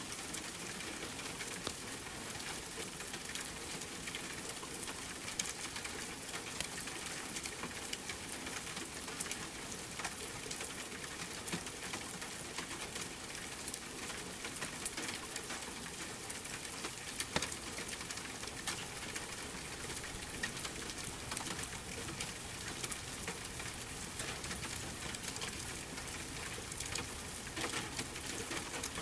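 Steady rain with a wood fire crackling in scattered sharp clicks.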